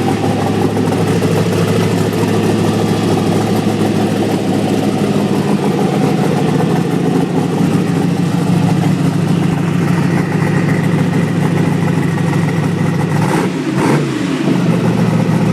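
Twin-turbocharged 454 V8 idling steadily on its second fire-up, with one brief rev near the end that falls back to idle.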